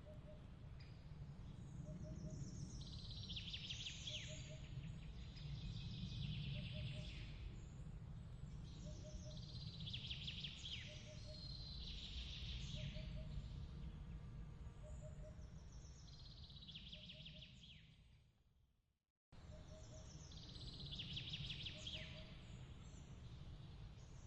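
Soft nighttime ambience of chirping: trilled chirps recurring every few seconds over a steady low rumble, with a small double chirp repeating about every second and a half. The bed fades out about eighteen seconds in and starts again abruptly a second later.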